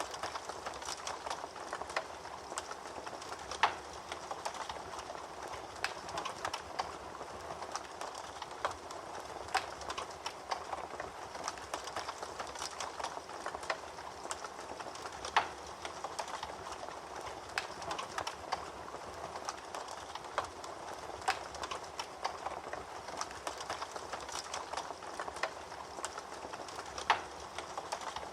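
Wood fire crackling in a fireplace: a steady hiss with frequent irregular snaps and pops, a few louder pops standing out.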